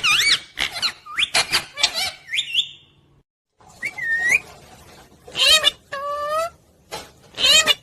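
Pet parrot calling: a run of sharp squawks and short whistled calls that glide up and down in pitch, a brief break about three seconds in, then several more separate calls.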